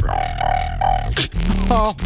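Solo vocal beatboxing: a low bass drone runs under a held, steady higher note. Near the end, a few short bending sung notes and sharp snare-like clicks come in.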